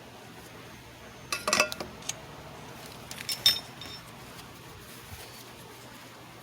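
Light clinks and knocks of small hard objects in two short clusters, about a second and a half in and again about three and a half seconds in, some with a brief ring.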